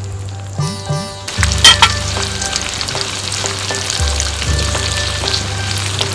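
Prawns, garlic and spring onions frying in a clay pot over a wood fire. About a second and a half in there is a loud burst of sizzling as chopped tomatoes go into the hot oil, and then a steady sizzle. Background music plays at the start.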